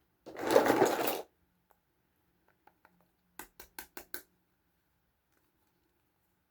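Hands handling small toys and their packaging: a loud rustle lasting about a second, then five quick clicks in close succession.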